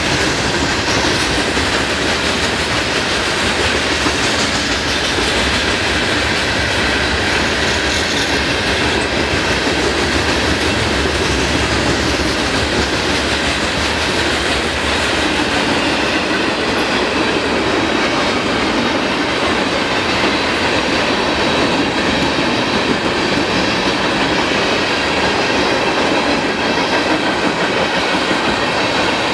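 Freight train cars rolling past: a steady, loud rumble and rattle of steel wheels on the rails.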